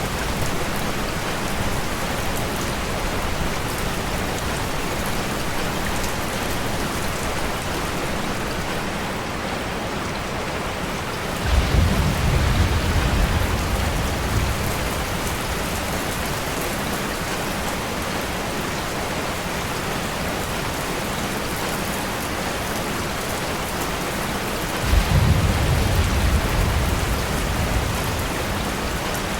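Steady rain falling, with two low rolls of thunder that start suddenly about halfway through and again near the end, each fading over a few seconds.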